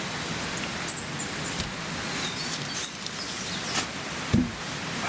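Steady rain falling, with scattered drops tapping, and one low thump a little past four seconds in.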